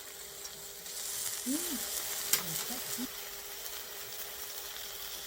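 A dog whimpering in short rising-and-falling whines, begging for food, a few times in the middle, over a steady hiss, with one sharp click just after two seconds in.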